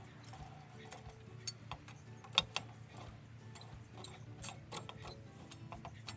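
Faint background music with irregular sharp clicks and clinks scattered through it; the loudest click comes about two and a half seconds in.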